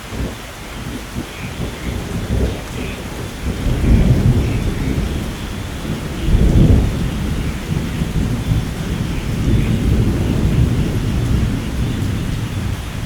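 Thunderstorm: steady rain with rolling thunder rumbling underneath, swelling twice, about four seconds in and more strongly between six and seven seconds in.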